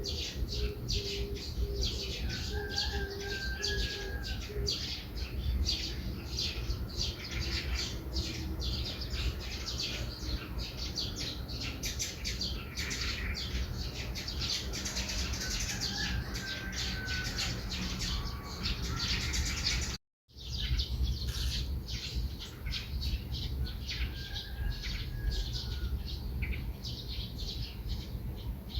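Morning chorus of small songbirds: many quick overlapping chirps and tweets, with a few longer whistled notes, over a steady low rumble. The sound cuts out for a moment about 20 seconds in, then the chirping carries on.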